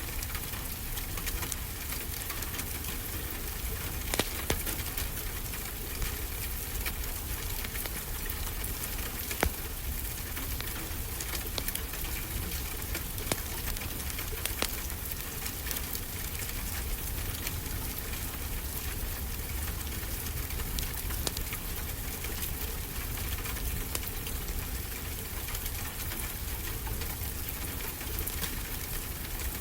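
Steady rain mixed with a wood fire crackling, with a few louder pops from the fire now and then.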